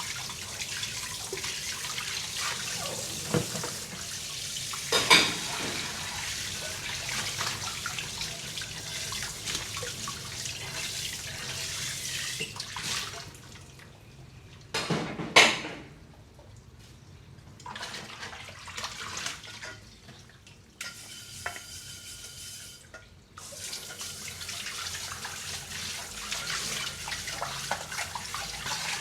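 Tap water running into a kitchen sink while dishes are washed by hand, with sharp dish knocks about five seconds in and again a little after halfway. The water is shut off for about ten seconds after the middle, leaving quieter rubbing and clinks, then runs again.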